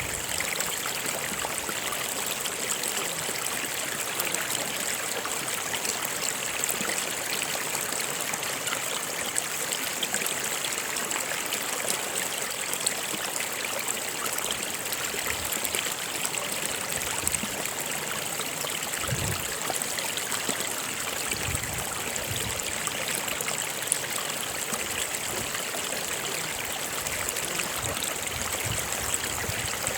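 Stream water running steadily, a constant rush with light trickling.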